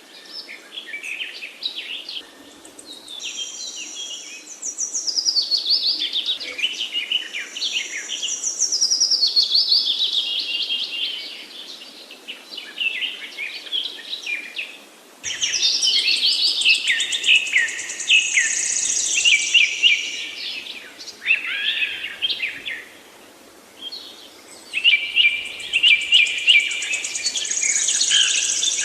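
Several songbirds singing together in a dense chorus of quick chirps, trills and whistled phrases. The song comes in and out and starts up again abruptly about halfway through.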